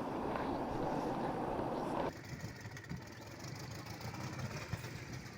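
Rushing river water, cut off abruptly about two seconds in, followed by a vehicle engine idling with a steady low rumble.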